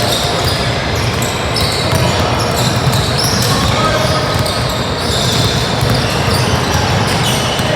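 Basketball game in progress: a ball bouncing on the court under a steady hubbub of spectators' and players' voices.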